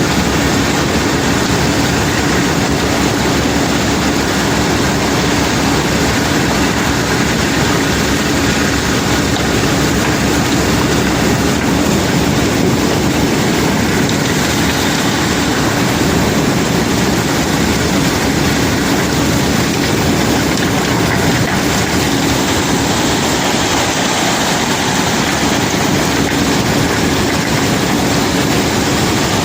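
Heavy unloading machinery running steadily: a continuous loud mechanical din with a steady low hum and no pauses.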